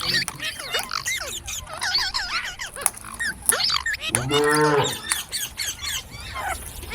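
Parrots chirping, a stream of short rising and falling calls. About four seconds in comes a single low, moo-like call lasting about a second.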